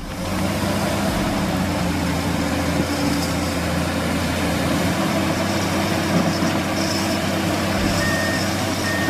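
Heavy truck engine running steadily under load, with a few short high beeps near the end.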